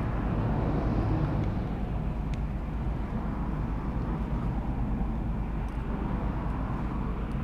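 Steady low electrical hum and hiss of background noise, with a few faint light clicks about two seconds in and about six seconds in.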